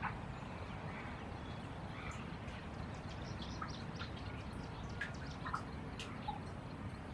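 White-rumped munias giving short, scattered chirps and clicks while feeding on seeds, over a steady low background noise.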